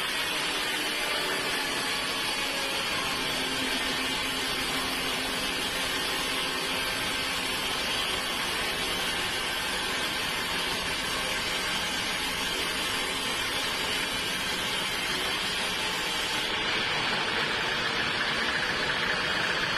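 Sawmill machinery running steadily, a dense even mechanical noise with a faint hum in it; the highest hiss thins out about three-quarters of the way through.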